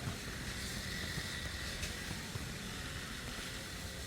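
Engine of a grass-cutting machine running steadily, a low rumble with a thin steady whine on top.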